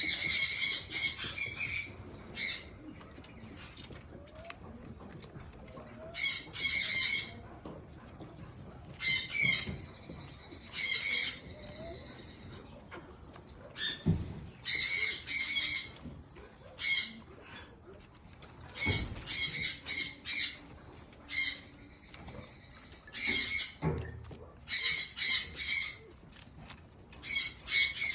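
A bird calling in groups of quick, high chirps, a new group every two or three seconds.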